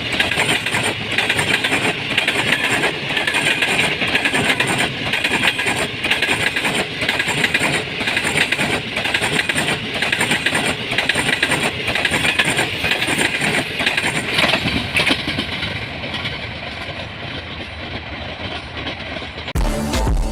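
Express passenger train passing through at speed: a loud rushing rumble with a regular clatter of wheels over rail joints, dying away in the last few seconds. Music starts just before the end.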